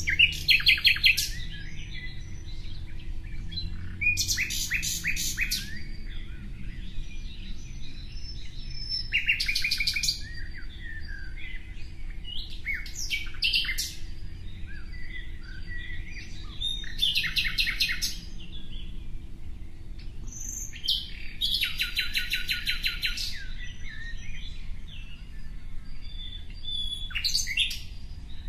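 A songbird singing a short, rapid trilled phrase again and again, about every four seconds, with quieter chirps in between.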